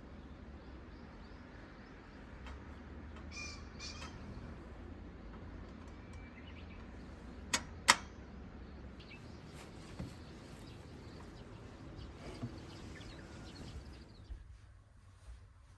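Quiet outdoor ambience with a low steady rumble and a few faint bird chirps. Two sharp clicks come in quick succession about halfway through.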